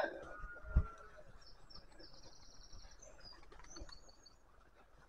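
A small bird twittering faintly in short high chirps from about two seconds in until past four seconds, with a single dull thump about a second in.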